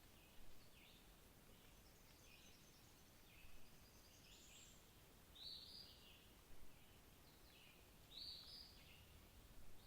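Several wild birds calling with short, high chirps, roughly one every second, a few louder calls among them, over a faint steady outdoor hush.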